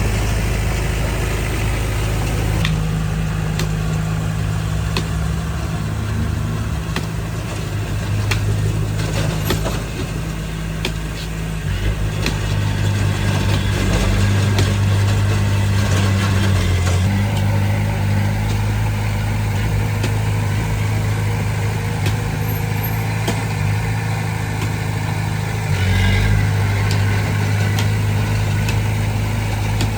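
Engine of heavy earthmoving machinery running steadily, its pitch shifting a few times, with scattered clicks and knocks.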